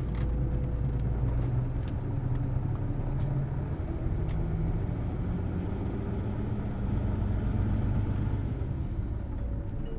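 Hino Blue Ribbon City Hybrid diesel-electric city bus under way, heard from inside the cabin: a steady engine and drivetrain hum whose pitch shifts slightly about four seconds in.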